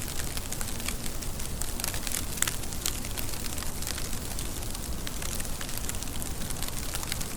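Steady rain falling, with many sharp, irregular drop ticks spattering on a hard surface over an even hiss.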